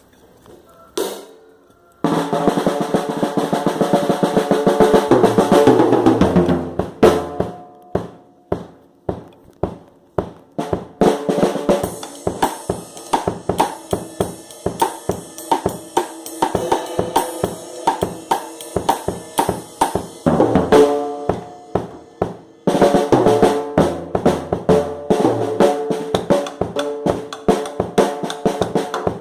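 Drum kit being played: a single hit about a second in, then dense, continuous playing with cymbals ringing, going into a fast run of snare and bass drum strokes.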